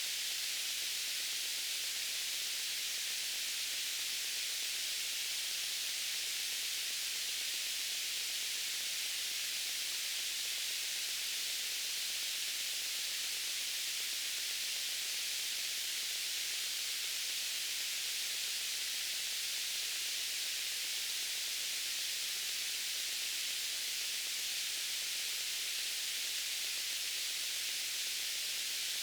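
Steady white noise: an even, unchanging hiss weighted toward the upper frequencies, with little low end.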